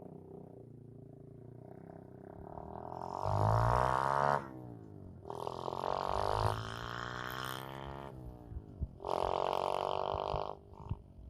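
125cc dirt bike engine idling low, then revved up three times, the pitch climbing and dropping back each time, with the loudest rev a few seconds in.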